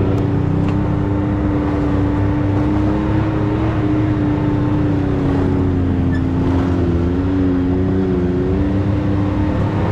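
Side-by-side UTV engine running steadily under way, its pitch holding fairly even with small rises and dips.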